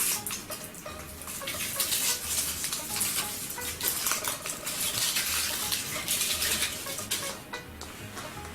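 Crinkling and crackling of foil wrappers being torn off chocolate eggs, with irregular rustles and small clicks that thin out near the end.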